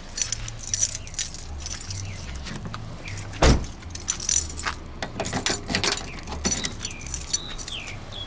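Car driving over a rough road, heard from inside the cabin: keys jangling and loose things rattling with the bumps over a low engine and road drone, with one hard jolt about three and a half seconds in.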